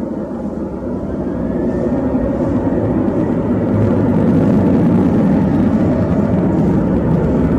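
Jet airliner engines: a loud low rumble that grows louder over the first four seconds, then holds steady.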